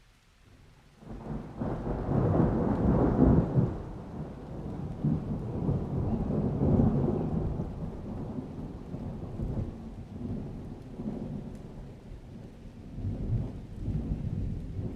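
Thunder rolls in about a second in, rumbling loudest over the next few seconds, then keeps rolling on with further swells as rain falls.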